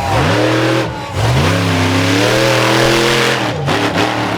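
Monster truck engine revved hard: a short rise in pitch, a brief drop about a second in, then a longer climb held high for about two seconds, falling off near the end into a few quick throttle blips.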